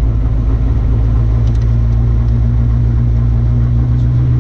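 Rally car engine running at a steady, unchanging pitch.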